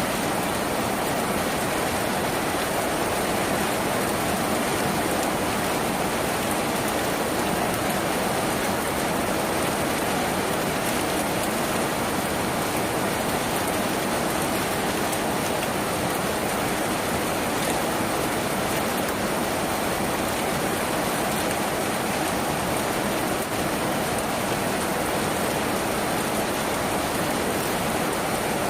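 Steady rain falling on a tin roof: an even, unbroken hiss of rain.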